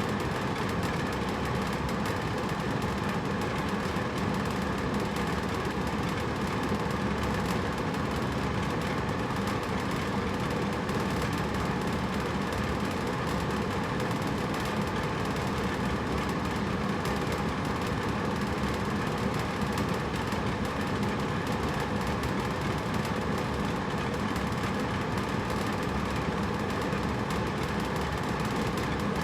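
Hotel room air conditioner running steadily: an even rushing hum of fan and blower with a faint low drone, unchanging throughout.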